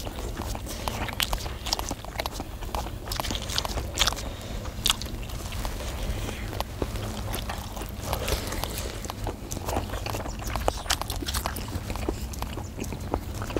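Several people eating hot fish cake (eomuk) off skewers: chewing and biting, with frequent short wet mouth clicks. A steady low rumble runs underneath.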